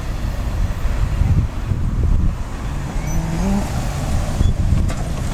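Steady low rumble of passing vehicles, with a brief faint pitched sound about three seconds in.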